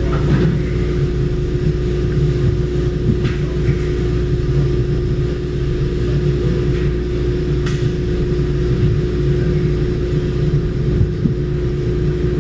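Steady low mechanical rumble with a constant droning hum, and a few faint clicks over it.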